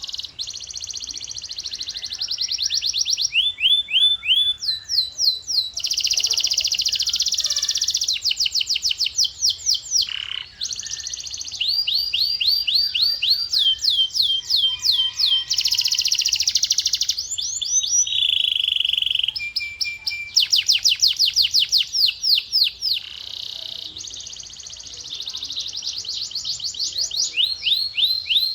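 Male canary singing a long continuous song of rapid trilled phrases, each a run of quick repeated sweeping notes that switches to a new phrase every second or two, with a few steady whistled notes between them.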